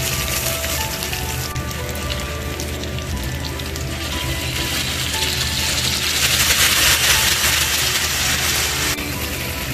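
Chicken, peppers and onions frying in a hot aluminium kadhai. About four seconds in, sauce poured into the pan sets off a louder sizzling hiss that stops abruptly near the end. Background music plays throughout.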